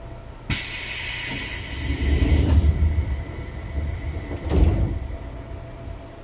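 Seibu 2000 series electric train heard from on board: a sudden burst of air hiss about half a second in that lasts about two seconds and cuts off, over low rumbling, then a heavy thump a little past four and a half seconds.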